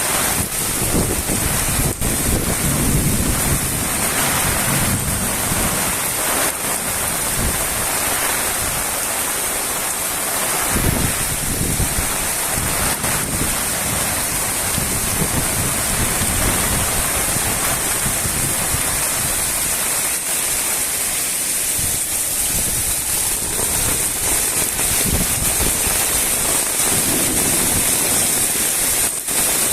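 Steady, fairly heavy rain falling, with an uneven low rumble underneath.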